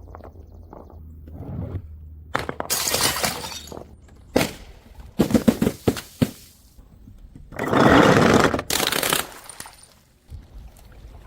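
Glass bottles smashing and shattering: a series of crashes and knocks, the longest and loudest about eight seconds in.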